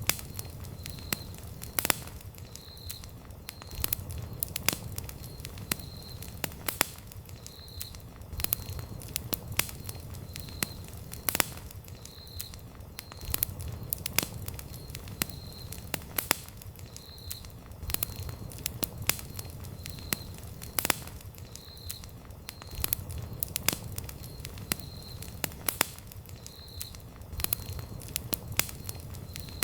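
Wood campfire burning with frequent sharp crackles and pops over a low, uneven rumble of the flames. A short high chirp repeats about once a second in the background.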